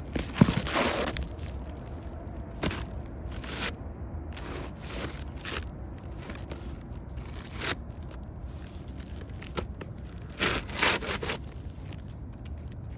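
Roofing shingles being handled: short, uneven scraping and rustling, with a sharp knock about half a second in and a busier run of scrapes near the end.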